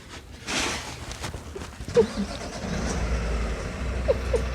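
Vehicle engine running with a steady low rumble that comes in about two seconds in, after a brief hiss near the start.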